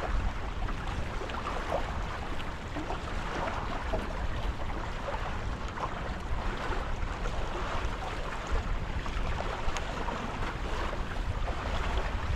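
Water swishing and splashing along the hulls of a Tornado catamaran under sail, with wind rumbling on the microphone and a few faint ticks.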